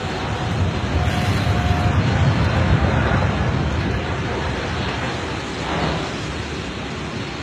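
A loud airplane rumble with wind buffeting the microphone, swelling about two seconds in and easing off toward the end.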